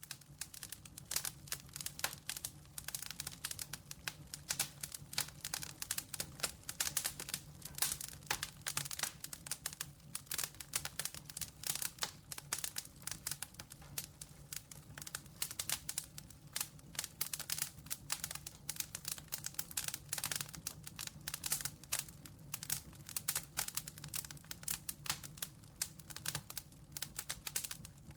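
Wood campfire crackling, with dense irregular pops and snaps throughout, over a low steady hum.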